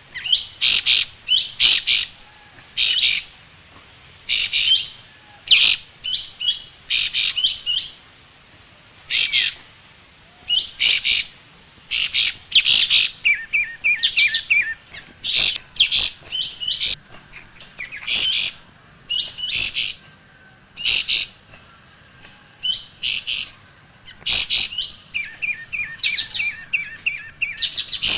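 A kapas tembak, a small bulbul, singing in short, bright, rapid bursts of chirping notes, one phrase every second or two with brief pauses between.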